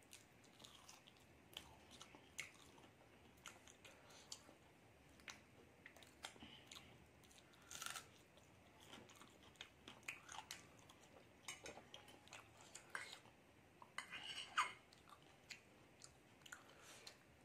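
Faint, close-miked chewing and crunching of a breadcrumbed, deep-fried egg devil, heard as many small, sharp clicks and crunches, with the loudest cluster near the end.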